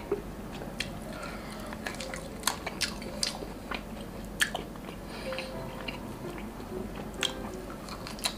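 A person chewing grilled meat with the mouth open, with irregular wet mouth clicks and smacks.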